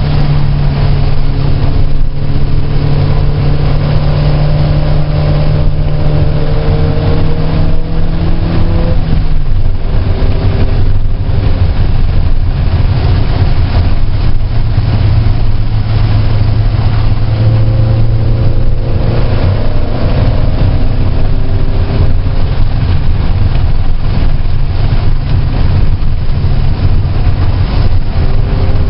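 Car engine heard from on board at track speed, running hard and steady. Its pitch drops about nine seconds in and later rises and falls again as it accelerates and shifts, over a constant wash of wind and road noise.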